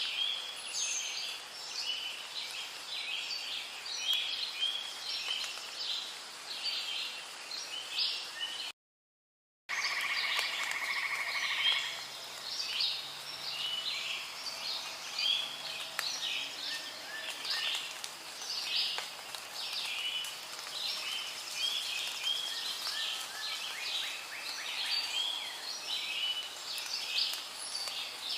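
Rainforest ambience: a dense chorus of rapid, high chirping calls from frogs, birds or insects. It drops out to complete silence for about a second partway through, then resumes with a brief steady whistling call.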